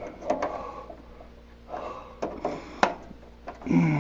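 Small clicks and light scraping of hand tools working at a fitting's retaining clip inside a propane heater, with a short falling vocal grunt near the end.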